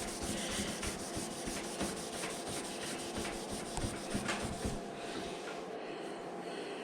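Abrasive paper rubbed by hand over the painted steel side panel in short back-and-forth strokes, easing off about five seconds in. The sanding knocks down small spots and shine in the paint so the next clear coat will stick.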